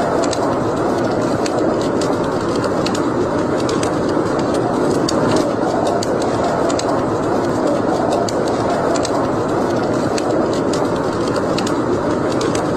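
Wood fire burning in a fireplace: a steady rushing of the flames with frequent, irregular sharp crackles and pops from the burning logs.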